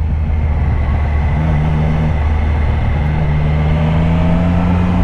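Triumph Street Triple RS three-cylinder engine running under way, over a steady low rumble of wind and road noise; its note rises slowly in the second half as the bike picks up a little speed.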